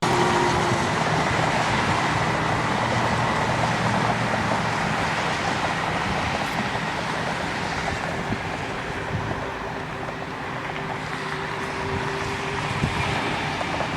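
Jet airliner engine noise: a steady, loud rush with a faint whine, easing a little about ten seconds in and building again near the end.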